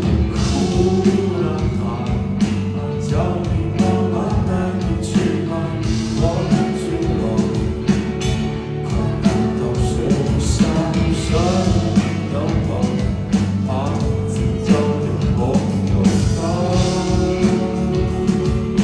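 Rock band playing live, with a voice singing over the band.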